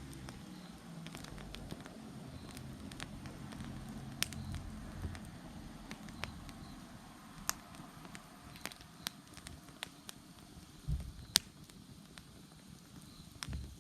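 Wood bonfire crackling, with scattered sharp pops, the loudest about eleven seconds in, over a low rumble that fades after the first half. Faint insect chirps come and go in the background.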